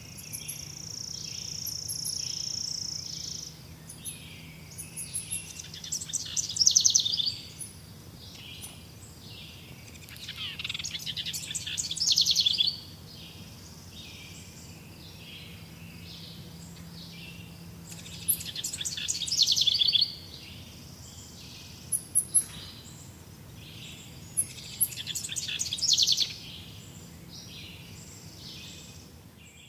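A songbird singing: a held high whistle for the first few seconds, then loud trilled phrases repeated every six or seven seconds, over a steady background of evenly repeating high chirps.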